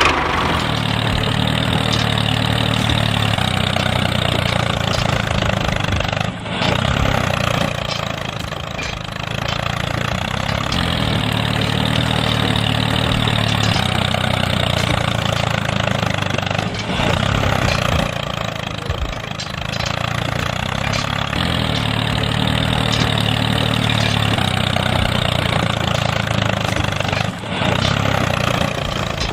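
A small engine running steadily, with brief dips in level a few times.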